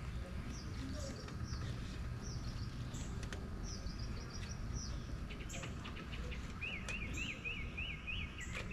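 Songbirds singing and calling over a steady low rumble of outdoor background noise; from about two-thirds of the way in, one bird gives a fast run of repeated chirps, about six a second.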